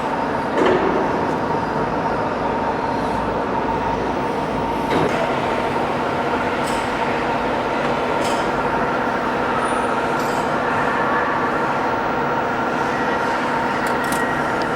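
Machinery running steadily: an even mechanical noise with a constant whine and hum at several fixed pitches, and a brief knock about five seconds in.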